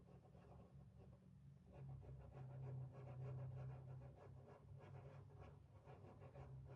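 Faint, quick scratchy strokes of a stencil brush working paint through a stencil onto a board, a few strokes a second, over a steady low hum.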